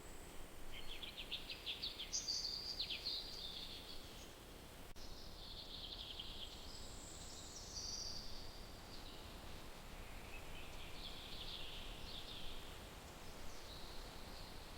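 Songbirds calling: a quick series of chirps in the first few seconds, then warbling phrases around the middle and again near the end, over a steady low background rumble.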